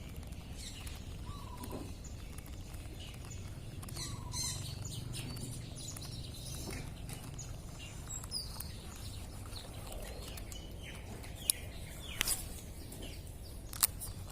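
Birds chirping here and there over a steady low outdoor rumble, with a few sharp clicks in the last few seconds.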